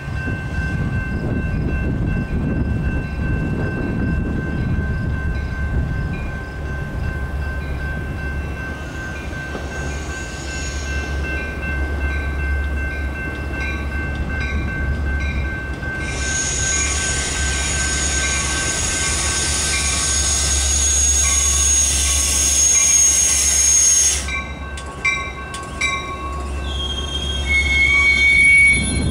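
Metra BNSF commuter train of stainless bilevel cars arriving along the platform and braking, its wheels and brakes rumbling. A loud high squeal runs for about eight seconds in the middle, then breaks into short squeals at changing pitches as the train comes to a stop near the end.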